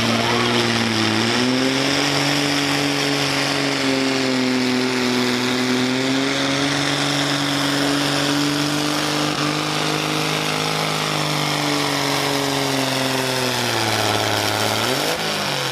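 Engine of a competition pulling vehicle running hard under full load during a pull. It sags about a second in, holds a steady high note for most of the run, then drops as the driver lets off near the end, with a brief rev just before it ends.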